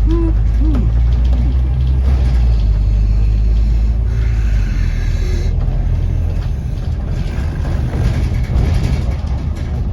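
Scania N270UD bus's diesel engine running with a steady low drone, heard from inside the bus. A hiss comes in about four seconds in, and the engine note changes about a second and a half later.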